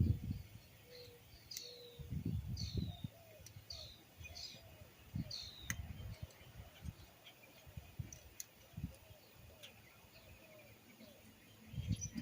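A small bird chirping, a short downward-sliding call repeated several times in the first half, mixed with a few sharp clicks and low knocks.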